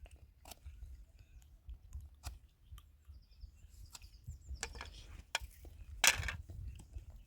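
Scattered sharp clicks and knocks at irregular intervals, the loudest about six seconds in, over a low rumble.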